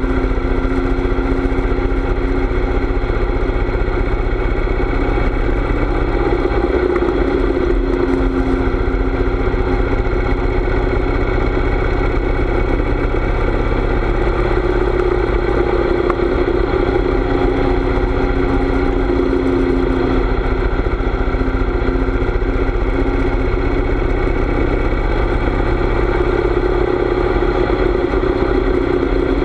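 Harley-Davidson V-twin motorcycle engine running steadily while riding, its pitch shifting slightly a few times.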